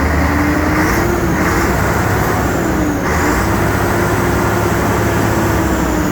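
A heavy road vehicle running steadily, with a faint whine that dips in pitch about halfway through and comes back up.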